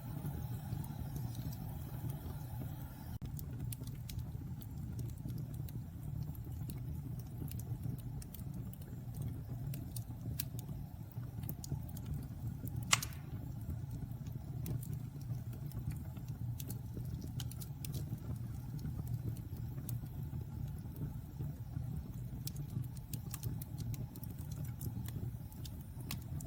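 Wood fire burning in a fireplace: a steady low rumble of the flames with scattered small crackles and one sharper pop about halfway through.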